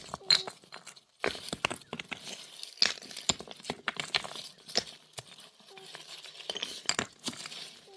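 Irregular light clinks and knocks, a dozen or so short sharp strikes spaced unevenly, typical of hard objects or utensils being handled.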